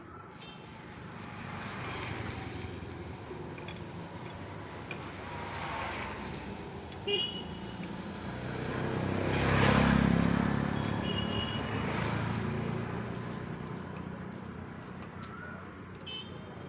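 Passing road traffic: vehicles going by in swells, the loudest pass peaking about ten seconds in.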